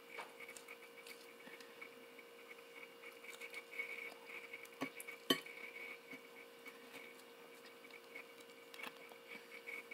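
Faint chewing and handling of fried chicken being bitten and pulled apart, with a few small sharp clicks about five seconds in and again near the end.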